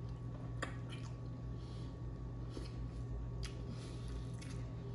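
Close-up wet chewing and biting of ranch-covered chicken wings, soft squishy mouth sounds with a few sharp smacks, over a steady low hum.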